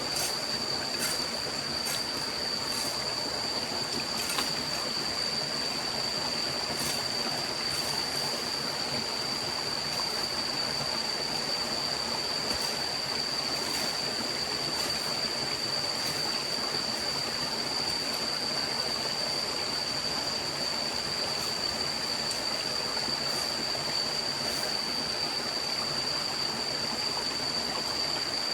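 Steady rushing of a forest stream, with a continuous high-pitched whine running over it and a few faint ticks.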